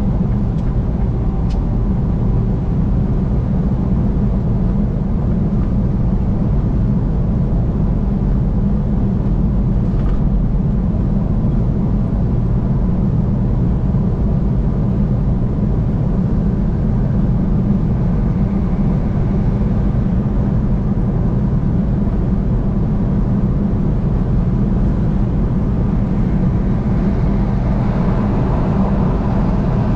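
Steady rumble of a vehicle driving at highway speed: road and engine noise, strongest in the low range, unchanging throughout.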